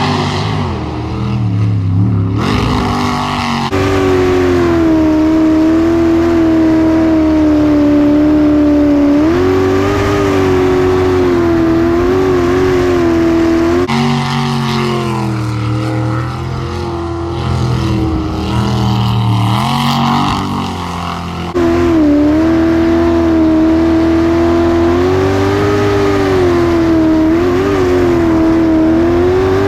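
Unlimited V8 jet sprint boat engine running at high revs, its pitch rising and dipping over and over, with a few abrupt jumps in the sound.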